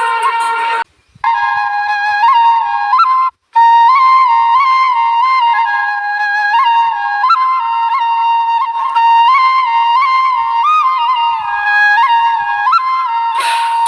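Background music: a solo flute melody with quick ornamented turns, breaking off twice for a moment near the start.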